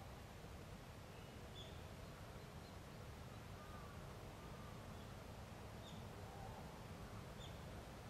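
Faint, scattered bird chirps, a few short high notes and a couple of soft whistled glides, over a steady low outdoor rumble.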